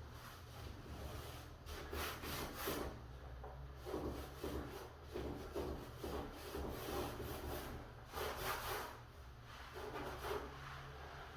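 Irregular rubbing strokes on a wooden door surface, some short and some lasting about a second, over a steady low hum.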